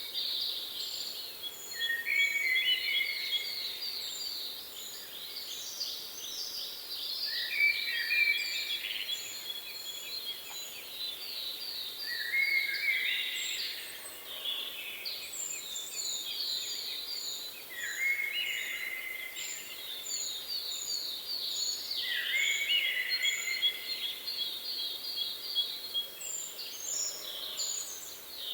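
Songbirds singing: a phrase of fast trills stepping down in pitch comes back about every five seconds, with a series of thin high chirps over it.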